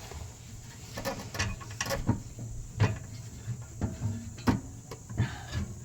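Metal exhaust parts clanking: a series of irregular knocks and rattles, about one or two a second, some ringing briefly, as the muffler is shoved and wiggled against the exhaust pipe where its tip is catching and won't seat.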